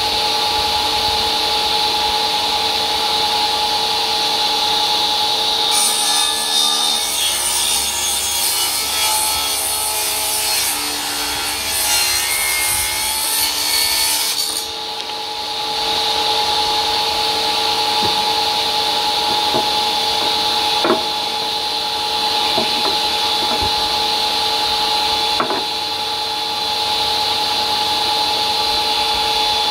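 1950 Tanner table saw running with a steady whine, cutting through wood from about six seconds in until about fifteen seconds, when the harsh sawing noise stops and it runs free again. A couple of light knocks come near the end.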